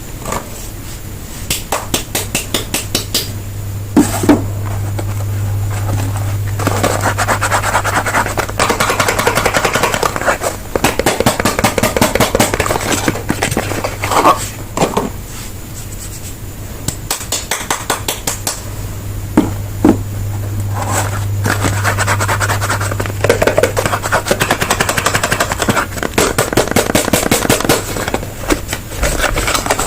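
Soap bars and their wrappers being handled and opened close to the microphone: runs of rapid crackly clicks and scratching, with a few sharper knocks, over a steady low hum.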